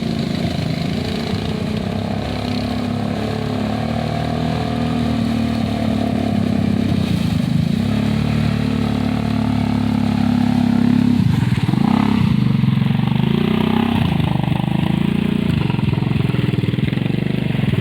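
Off-road vehicle engine running loudly, its revs falling and rising again several times in the second half.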